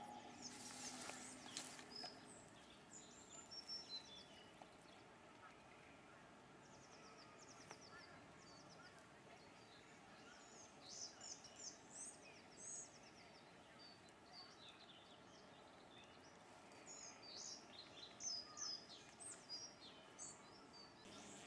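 Faint birdsong: small birds chirping and trilling on and off, with clusters of calls near the start, in the middle and near the end, including a quick run of repeated notes about eight seconds in.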